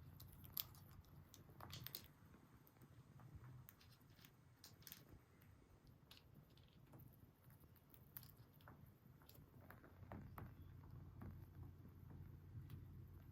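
Faint, irregular small clicks and crunching, scattered through, over a steady low hum.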